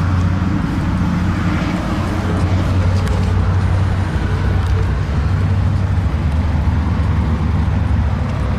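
Mazda 6 engine idling: a steady low rumble that holds level throughout.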